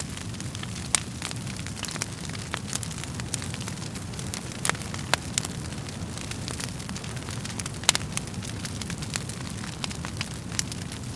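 Wood fire crackling in a fireplace: a steady low rumble of burning under frequent, irregular sharp pops and snaps of the wood. The loudest snaps come about a second in and about two-thirds of the way through.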